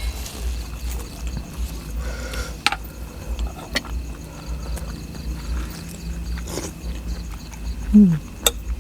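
Close eating sounds: chewing and mouth noises with a few sharp clicks. Near the end comes a short low hum that falls in pitch, the loudest sound here.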